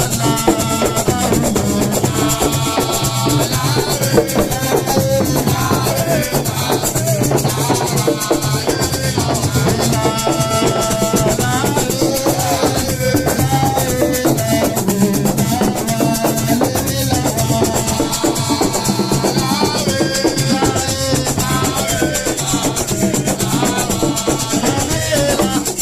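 Live band music with drums and a shaker or maraca rhythm over a steady bass line, with melodic lines weaving above.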